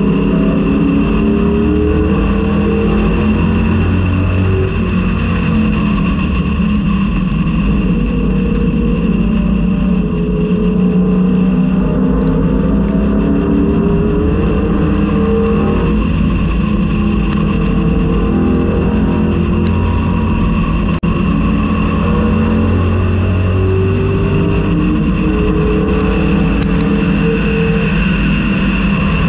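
Race-prepared 1999–2004 Ford Mustang's engine heard from on board at racing speed. It revs up repeatedly and drops back with each gear change and corner, with a steady high whine over it.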